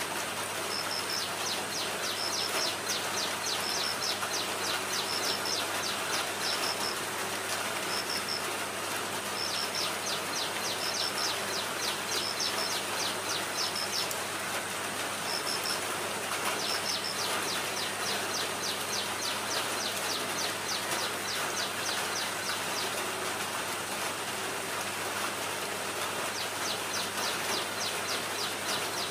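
A bird repeats a short, high double note about once a second, over runs of fast, high ticking and a steady background hiss.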